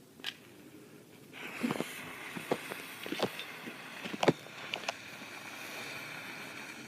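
A lit ground firework starts spraying about a second in, giving a steady hiss of sparks with several sharp crackling pops on top. The loudest pop comes a little past four seconds in.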